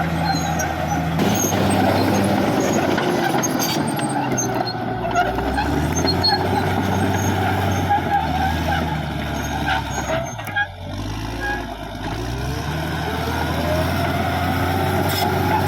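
Caterpillar D6R XL bulldozer's diesel engine running hard under load, with faint clicks over it. About ten seconds in the revs sag briefly and then climb back up.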